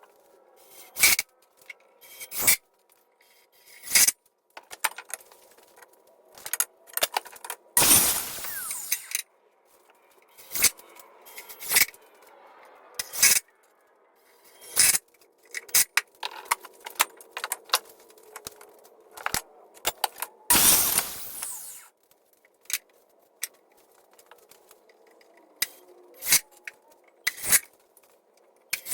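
Woodworking on a wooden frame: a run of sharp knocks and clacks from wood slats and hand tools, with two longer bursts of a power tool, one about 8 seconds in and one about 21 seconds in.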